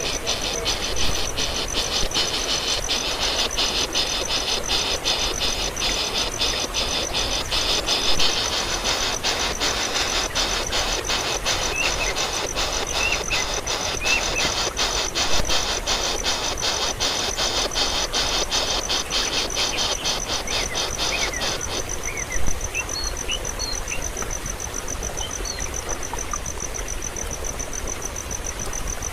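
Insects trilling in a steady, evenly pulsed chorus that stops about three quarters of the way through, leaving a thinner, high, steady trill with a few faint short chirps over it.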